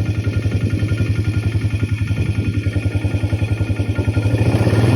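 Four-wheeler (ATV) engine running with an even, rapid exhaust pulse, getting louder near the end.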